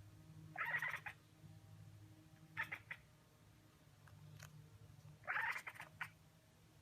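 A cat calling out three times: short calls about a second in and near the three-second mark, and a longer one a little after five seconds.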